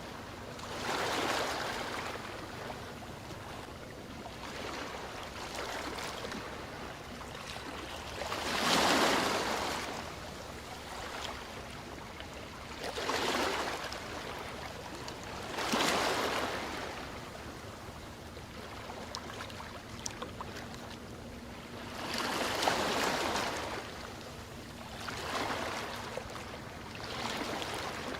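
Ocean waves washing onto a shore, with a steady background wash that swells into separate surges every few seconds. The strongest surges come about nine, sixteen and twenty-two seconds in.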